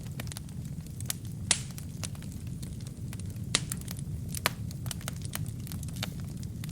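Wood fire burning in a fireplace: a steady low rumble of flame under irregular sharp crackles and pops of the burning wood, the loudest pops about one and a half, three and a half and four and a half seconds in.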